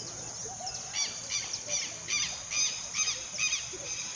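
A bird calling: a series of about eight short, harsh notes, roughly three a second, beginning about a second in, over a steady high background hiss.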